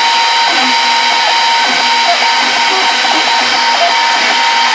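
Plywood-framed CNC machine running, its spindle motor giving a steady whine over a constant rush of noise.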